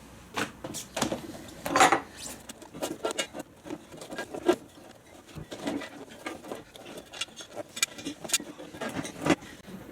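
Irregular clicks, taps and rustles of hands handling small parts and tools, with a louder rustling clatter about two seconds in.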